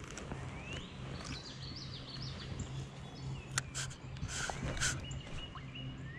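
Songbird singing: rising whistled notes and a quick warbling phrase. Between about three and a half and five seconds in come a few sharp clicks and short rustles, from the angler handling his gear.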